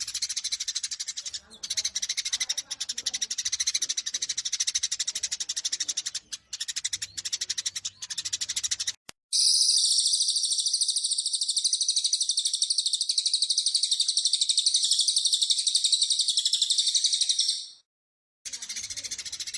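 Eurasian tree sparrows chattering rapidly and densely in fighting calls, broken off about nine seconds in by a high, very fast and even trill from another bird that runs about eight seconds and stops abruptly; after a short silence the sparrow chatter resumes.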